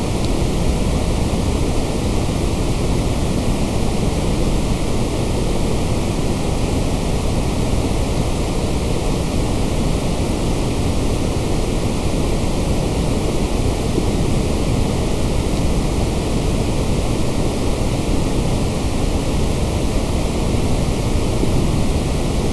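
Steady electronically generated white noise: an unbroken, even hiss with no changes, fuller in the low end than high.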